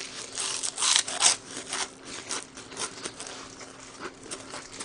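Close-miked eating sounds: crunchy chewing and crackling, loudest in a cluster of crunches about a second in, then smaller crackles.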